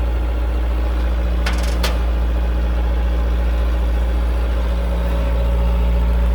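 An engine idling steadily with a deep hum, with two short clicks about a second and a half in.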